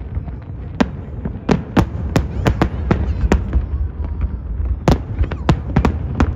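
Fireworks display: a rapid, irregular series of sharp bangs and pops over a continuous low rumble from shells bursting. The loudest bang comes near the end.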